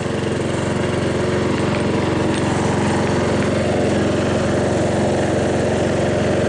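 Craftsman 12-horsepower lawn tractor's Briggs & Stratton engine running steadily.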